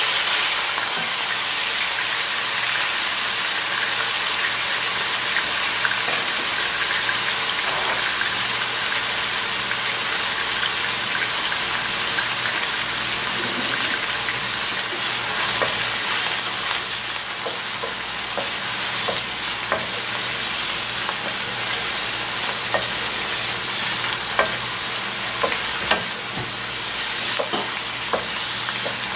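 Marinated chicken pieces sizzling steadily in hot canola oil in a nonstick wok, a dense crackling hiss. From about halfway on, a wooden spoon stirring the pieces adds scattered small taps against the pan.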